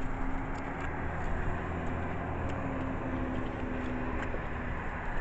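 Motor vehicle engine running steadily, a low hum with a faint held tone.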